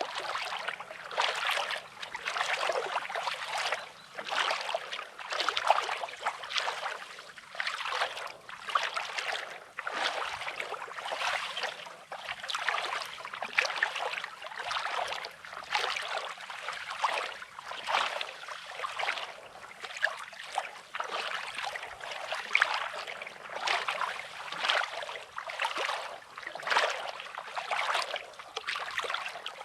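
Small sea waves lapping and washing over a rocky sand shore in quick, repeated hissing surges.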